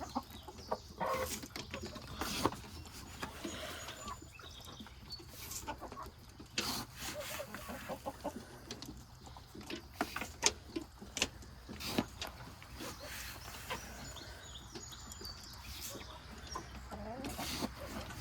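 Laying hens clucking, with scattered sharp clicks and rattles throughout as feed is being scooped out for them.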